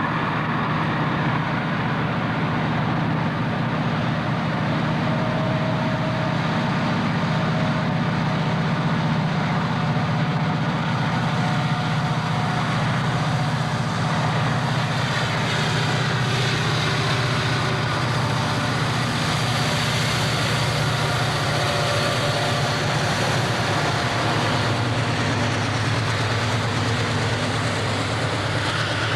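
CSX freight train passing, its diesel locomotive engines running with a steady low drone over the continuous rumble of the train.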